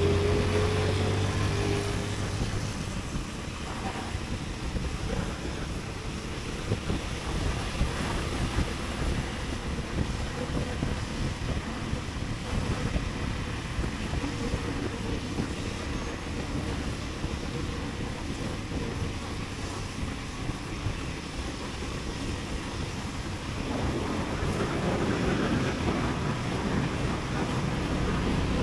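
Motorcycle riding through city streets: engine running under wind rushing over the microphone. A steady tone sounds for the first couple of seconds, and the wind and engine grow louder from about three-quarters of the way in.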